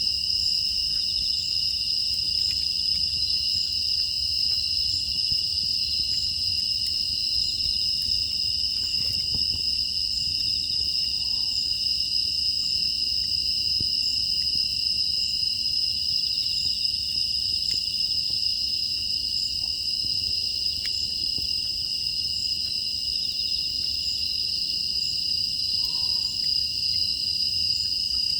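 Steady chorus of grass insects such as crickets, trilling continuously in two high pitches, with faint scattered ticks underneath.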